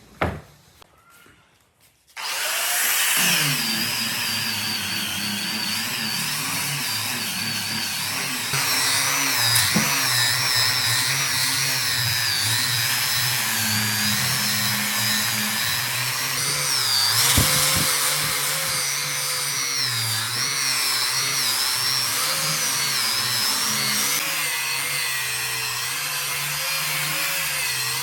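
A handheld power tool switches on about two seconds in and runs steadily, its pitch wavering as it is worked against the wood.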